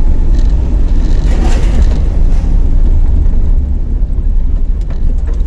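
Volkswagen Gol's CHT 1.6 four-cylinder engine, fed by a Weber 460 carburettor, running as the car drives, heard from inside the cabin as a steady low rumble mixed with road noise.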